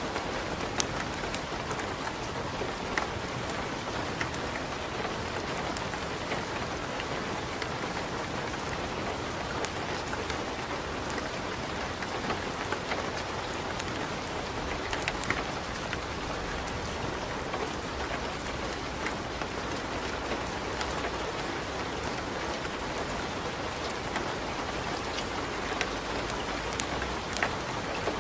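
Steady rain mixed with a crackling fireplace fire: an even hiss with scattered sharp pops and crackles.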